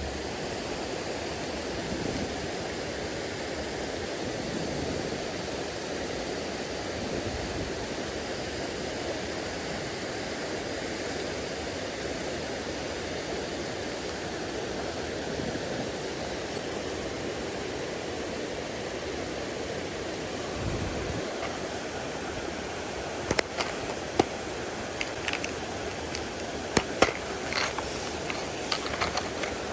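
A mountain stream rushing steadily. Near the end, a run of sharp clicks and knocks comes over it.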